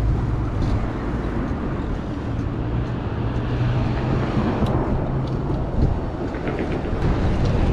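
Downtown street traffic: a steady wash of road noise with a low engine hum from vehicles close by, which eases about five and a half seconds in.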